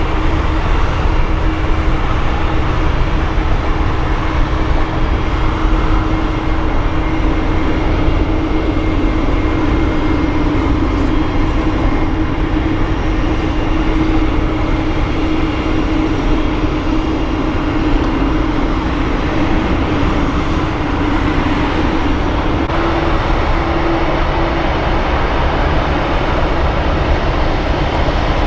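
Jet airliner engines running: a steady, loud noise with a held hum that dips slightly in pitch past the middle, over a fainter high whine.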